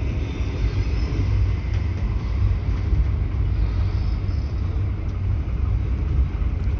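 Steady low rumble of a ScotRail Inter7City HST train in motion, heard from inside the train.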